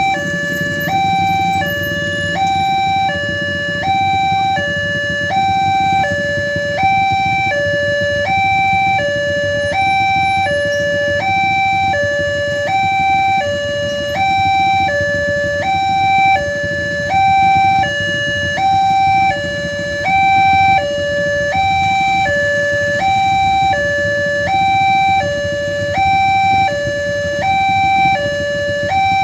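Railway level-crossing warning alarm sounding a steady two-tone signal, alternating evenly between a higher and a lower pitch about once every 1.4 seconds, over a low rumble.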